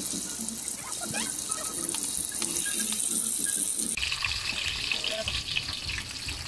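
Burger patty sizzling as it fries in hot oil in a wok: a steady hiss. The hiss changes abruptly about four seconds in.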